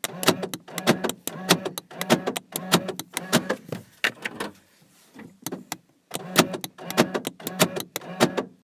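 A run of sharp clicks, about three to four a second, over a low steady hum, stopping for a second or so near the middle and then starting again.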